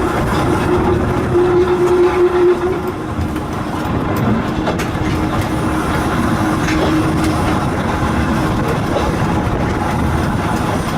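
Volk's Electric Railway car running along its narrow-gauge track: a steady rumble of wheels on rail with a faint held hum and a few light clicks.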